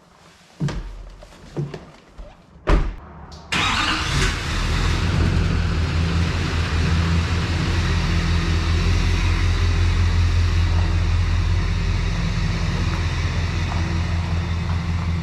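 A few knocks, then the 2015 GMC 2500HD pickup's engine starts about three and a half seconds in and settles into a steady idle.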